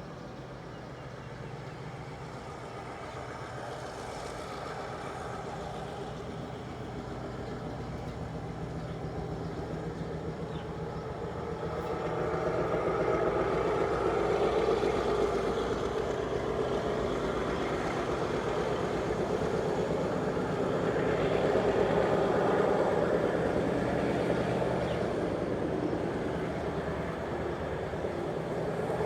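Train running past: a steady rumble over a low engine hum that grows louder about twelve seconds in and swells again a little past twenty seconds.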